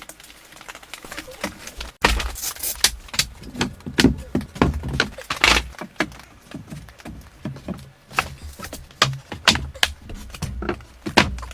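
Irregular clatter of sharp knocks and clicks with some dull thumps, starting suddenly about two seconds in after a quieter stretch of steady noise.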